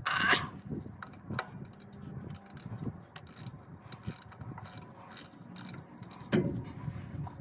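Ratchet wrench clicking irregularly with knocks of metal tools as a stuck bolt through the plate on the back of a 390 big-block engine is worked loose.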